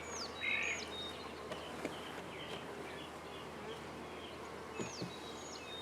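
Honey bees from a large swarm buzzing around their hive, a steady hum. A bird calls with short falling whistles near the start and again near the end.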